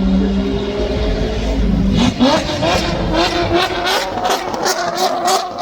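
Race car engine at a steady note, then from about two seconds in accelerating hard, its pitch climbing and dropping again and again.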